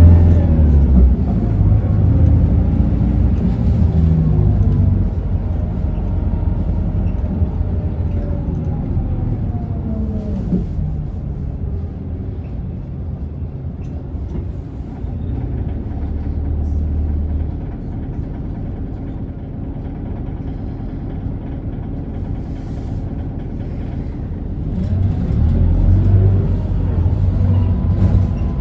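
Interior sound of an Isuzu Erga diesel city bus: engine and drivetrain whine falling in pitch as the bus slows, a long quieter stretch of steady running, then a rising whine as the bus pulls away again about 25 seconds in.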